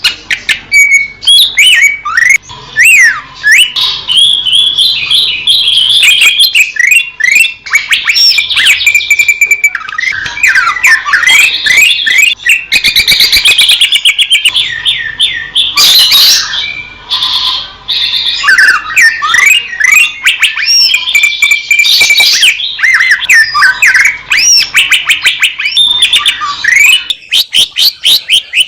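Cucak ijo (green leafbird) singing a long, fast, varied song of chirps, slurred whistles and rapid trills with almost no pauses.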